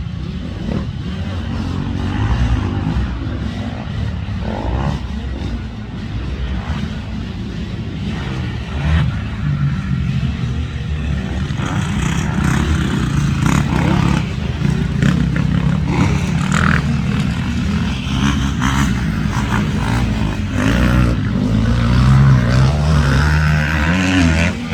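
Motocross bike engine running hard and revving, rising and falling in pitch.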